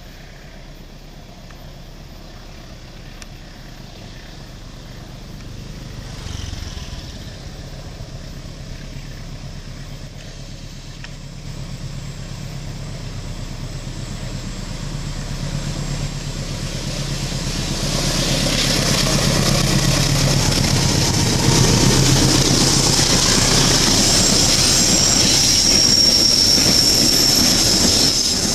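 Diesel locomotive hauling a train of fuel tank wagons approaches with its engine running, growing steadily louder. In the last third the wagons roll past, with a rising rush of wheel-on-rail noise and a high, steady squeal of wheels on the curve.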